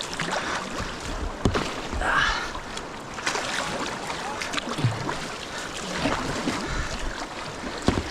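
River water rushing around a kayak, with irregular splashes of paddle blades dipping into the current.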